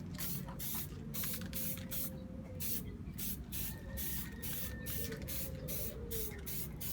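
Aerosol can of acrylic epoxy spray paint hissing in many short, repeated bursts as paint is sprayed onto a casing.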